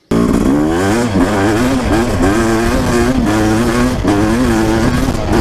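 2006 Suzuki RM250 single-cylinder two-stroke dirt bike engine, fitted with an FMF Gold Series exhaust, revving hard under acceleration. Its pitch climbs and drops back several times as it pulls through the gears.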